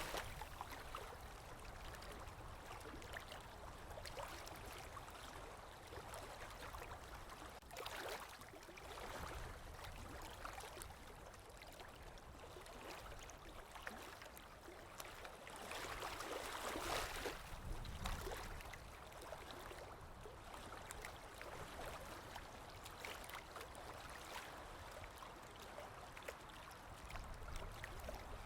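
Sea waves washing on the shore: a steady hiss of moving water that swells into louder surges about 8 seconds in and again around 16 to 17 seconds.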